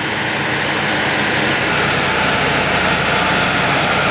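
Turbocharged Ford Focus engine running steadily at speed, mixed with road and wind noise. A higher whine in the sound grows stronger about two seconds in.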